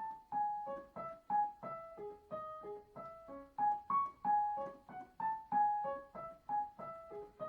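Piano played with both hands in a child's piece in C-sharp minor: short, light staccato notes, about three a second, with the left hand joining the right.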